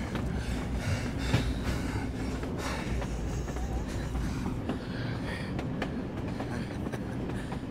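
Steady low rumble of a moving passenger train heard from inside a compartment, with irregular clacks of the wheels passing over rail joints.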